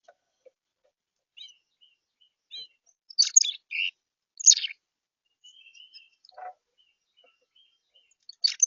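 Small birds chirping: a few loud, sharp calls, about three, four and a half and eight and a half seconds in, among scattered softer twitters.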